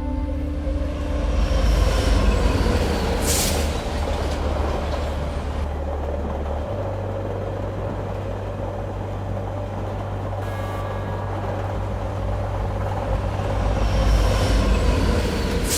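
London Underground train running: a steady rumble with a continuous whine, and a short hiss about three seconds in.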